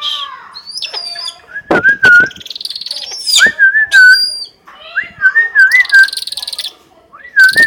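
Bird calls: a series of high, wavering whistles, repeated several times, with shorter high chirps and a few sharp clicks mixed in.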